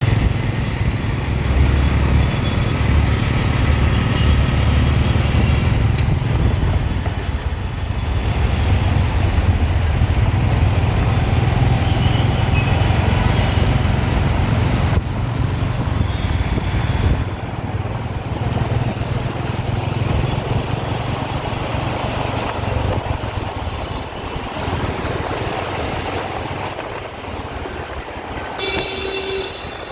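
Road traffic heard from a moving bike: a steady low rumble of engine and wind that eases about halfway through, with vehicle horns sounding, one short horn toot near the end.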